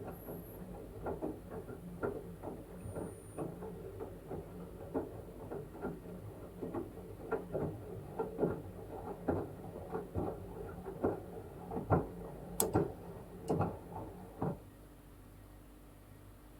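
LG washing machine drum turning a wet blanket in the wash cycle: a run of irregular soft knocks and splashes, a few a second, that stops near the end, leaving a low steady hum.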